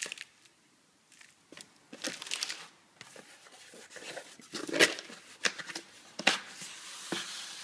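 Packaging being handled: irregular crinkling and tearing, with a short quiet spell near the start and then a busy run of rustles.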